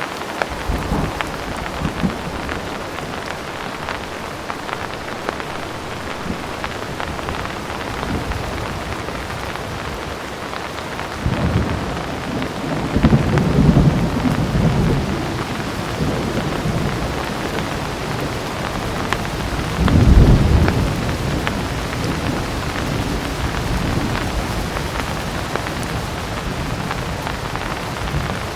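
Heavy rain falling steadily, with rolls of distant thunder: a long rumble about halfway through and a shorter, louder one a little later.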